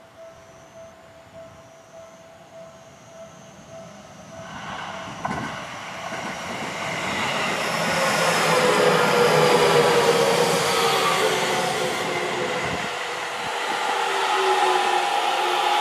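A Japanese level-crossing bell rings with even strokes. About four seconds in, a Seibu 30000 series electric train comes in and passes close, its wheels rumbling on the rails, with the inverter motor whine falling in pitch as it brakes for the station.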